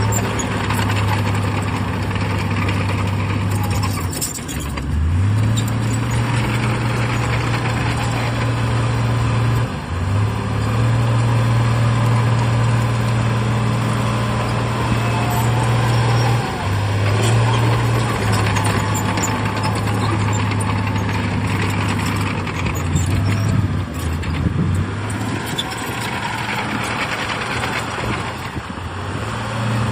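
Shantui bulldozer's heavy diesel engine running steadily under load. Its pitch dips and picks back up about four times, with one clear rise in engine speed around 5 seconds in, as the machine works and changes effort.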